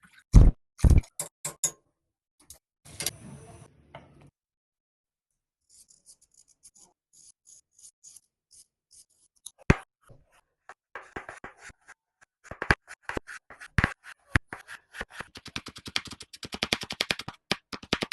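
Food preparation sounds: a series of sharp clicks and taps, sparse at first and coming fast and dense over the last few seconds, with a short scraping sound about three seconds in.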